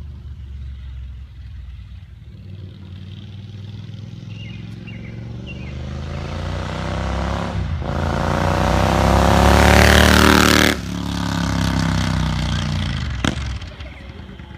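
2014 Triumph Scrambler's parallel-twin engine running through a D&D aftermarket exhaust, accelerating and growing steadily louder for about ten seconds. The sound cuts off abruptly at its loudest, as the throttle closes, then runs on more quietly and fades. A single sharp click comes near the end.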